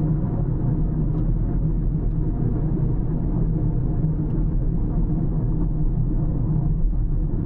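Car driving along the road: a steady low rumble of engine and tyres, with a few faint ticks.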